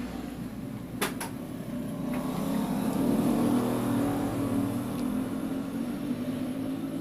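Steady engine hum that swells louder around the middle, with a sharp double click about a second in.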